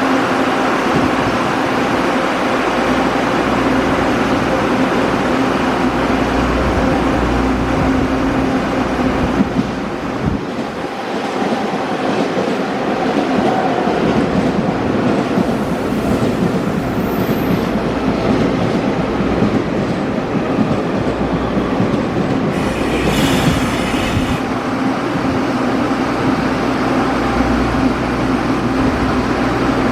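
Train running through the station close by, a continuous loud noise of wheels on rails with a steady low tone, and a brief high-pitched screech about 23 seconds in.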